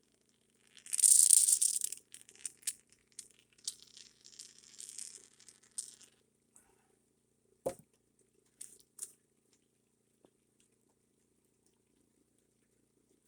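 Handling noises while fitting a building panel: a short loud hiss about a second in, then scattered rustling and crackling, a single sharp thump a little past halfway, and two clicks. After that, only a faint steady hum.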